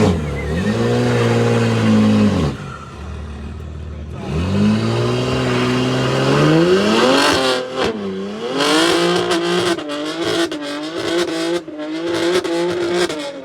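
A performance car engine being revved hard: the revs are held high, drop about two and a half seconds in, climb again, then from about eight seconds on jump up and down quickly with sharp crackles.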